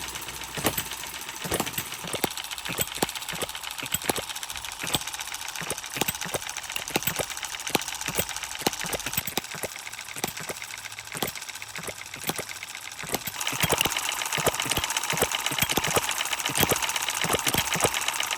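Three model hit-and-miss petrol engines running together: a 7.5cc Retrol Musa HM-01, a 3.6cc Okmo B01 ball hopper and a 1.5cc Okmo M17. Their open cranks make a busy clatter of sharp ticks, several a second and unevenly spaced, as the engines fire and coast out of step with each other. The sound grows louder about 13 seconds in.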